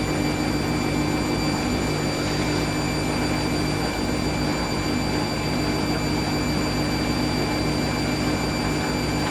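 Hoover SIX Inter@ct AAA Whisper 1600 front-loading washing machine spinning its drum at a steady speed in a short intermediate spin between rinses. A steady mechanical whine with several fixed pitches holds at an even level.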